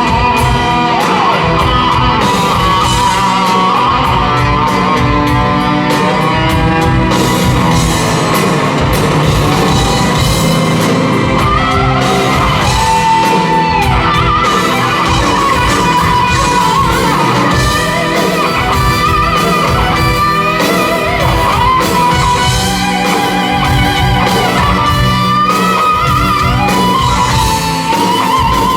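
Rock band playing live, with electric guitar leading in held and bending notes over bass and drums.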